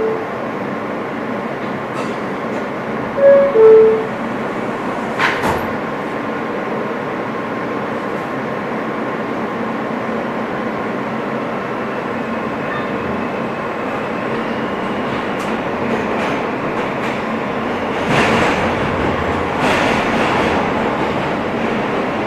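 R160 subway car's two-tone door chime sounds, falling in pitch, about three seconds in as the doors close; then the train pulls out and runs along the track with a steady rumble, a few clicks over rail joints, and louder running noise near the end, heard from inside the car.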